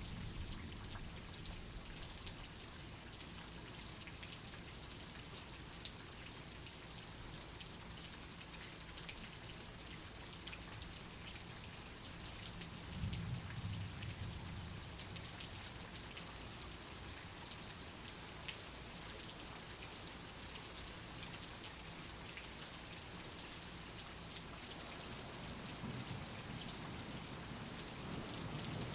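Steady rain, with a soft low rumble of thunder about halfway through.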